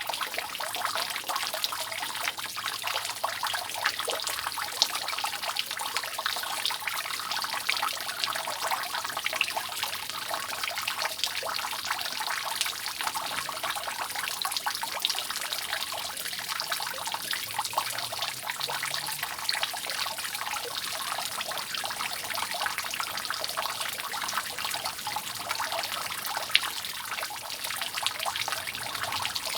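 Water dripping and trickling steadily off a roof: a dense run of countless small drops, with a couple of louder single drips around 5 and 26 seconds in.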